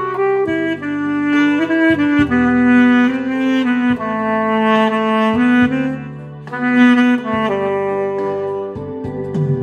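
Saxophone playing a slow melody of held notes over an instrumental backing track with bass and chords.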